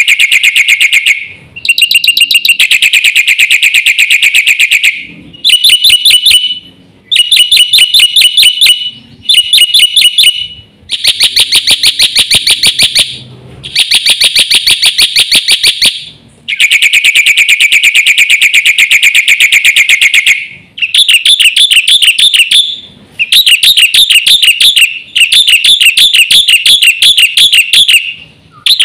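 Black-winged myna (jalak putih) singing loudly in full song, in repeated bouts of rapid, sharp, chattering notes. Each bout lasts one to four seconds, with short pauses between.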